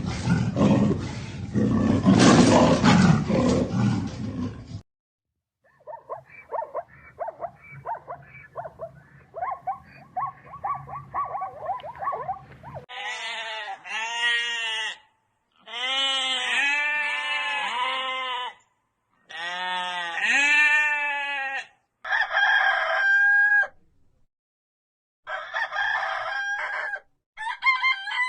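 A string of different animal calls cut one after another: a loud, rough, noisy call for the first few seconds, then a run of quieter rapid calls, then several groups of pitched, arching calls, each group stopping abruptly.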